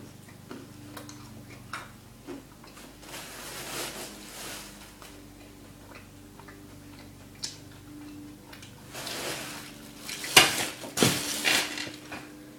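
Small hard chocolate-rocks candies being handled and chewed: scattered small clicks, then a run of louder crunching noises near the end.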